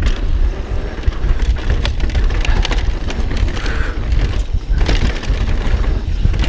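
Mountain bike descending a rough, dusty dirt trail: tyres crunching over dirt and rocks with constant small rattles and knocks from the bike, over a heavy low rumble of wind buffeting the microphone.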